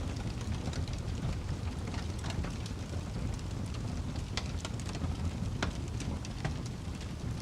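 Wood fire crackling: a steady low rumble with irregular sharp pops and snaps scattered through it.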